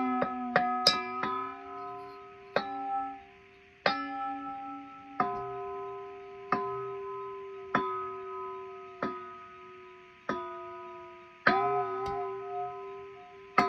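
Metal bowls with water in them, struck and left ringing with several overlapping tones that die away slowly and bend slightly in pitch. A quick run of four strikes near the start is followed by single strikes about every second and a quarter.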